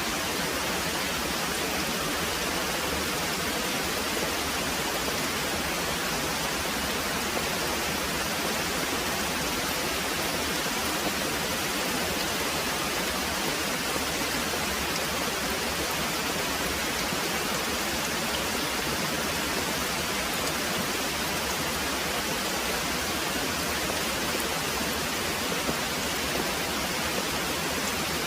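Very heavy rain pouring steadily: an even, dense hiss that does not change.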